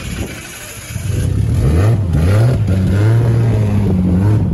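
Car engine revving: the revs climb sharply about a second in and are held high, then drop and bounce briefly near the end.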